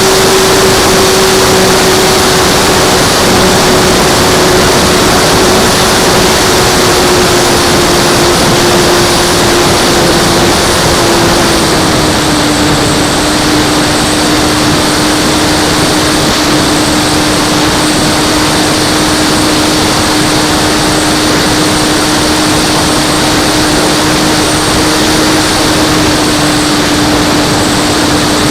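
Electric motor and propeller of a Flyzone Cessna Corvalis RC plane in flight: a steady whine that steps down in pitch about halfway through as the motor slows, under a loud, even rush of air noise.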